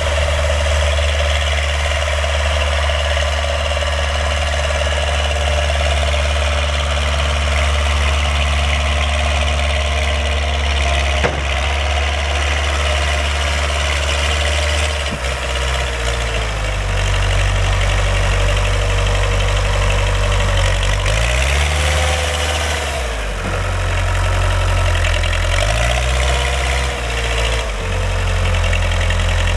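Backhoe engine running steadily. About halfway through its speed changes, and twice in the second half the engine note dips and then recovers. A single sharp click sounds a little before the midpoint.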